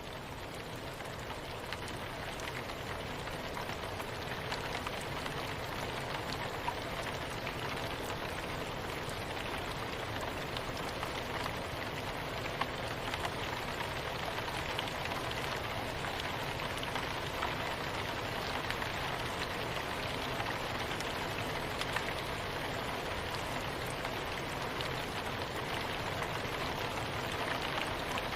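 Steady soft rain falling, a dense even hiss dotted with many small drop ticks. It grows louder over the first few seconds, then holds steady.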